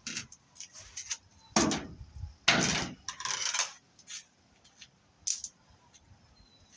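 Metallic clinks and clatter of BX armored cable being cut and stripped by hand, with two louder, longer metal rattles about one and a half and two and a half seconds in, then a few scattered clicks.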